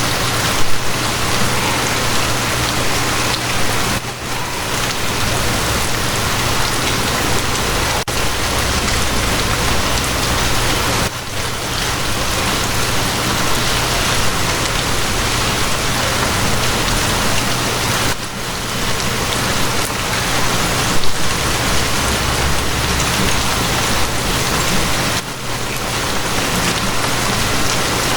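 Steady rain, an even hiss with a steady low hum beneath it, dipping briefly about every seven seconds.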